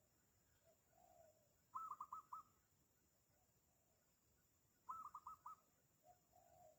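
Spotted dove (tekukur) calling twice: soft low cooing notes, then a quick phrase of about four louder, higher notes.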